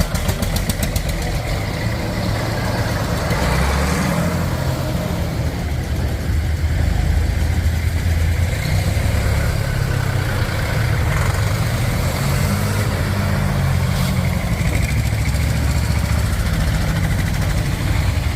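Tractor engines running steadily, with a low engine drone that shifts in pitch now and then. A rapid ticking is heard in the first second.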